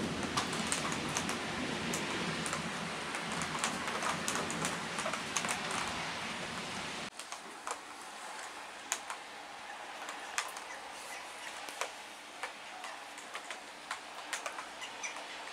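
Heavy rain with a low rumble of thunder, which drops off abruptly about seven seconds in. After that comes lighter rain, with single drops ticking sharply on a hard surface close by.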